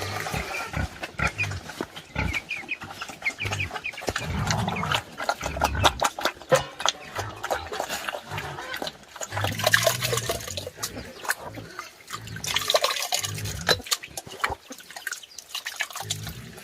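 Pigs grunting and eating, with many sharp chewing clicks throughout and low grunts at intervals; chickens cluck in places.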